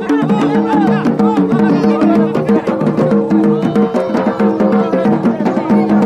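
Yemeni wedding procession music: fast, dense drumming on tabl and marfa' drums under a held melody that steps between a few notes.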